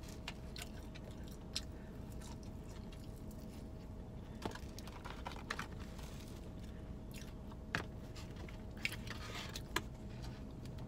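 Quiet close-up chewing of fried food, likely French fries, with scattered small crunches and mouth clicks, over a faint steady hum inside a parked car.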